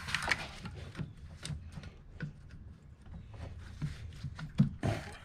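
Scattered light clicks and knocks of engine-bay parts being handled and fitted back on by hand, the loudest a couple of knocks near the end.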